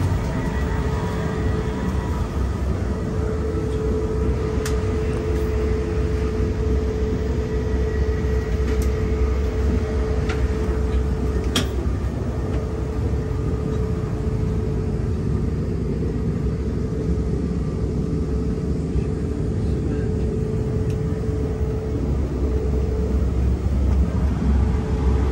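Steady rumble of a Siemens passenger coach running at speed, heard from inside the car, with a steady hum over it. Four sharp clicks sound in the middle.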